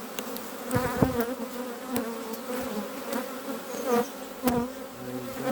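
Honeybees buzzing around an open hive, with single bees flying close past the microphone so the buzz swells and bends in pitch. A few light knocks sound among the buzzing.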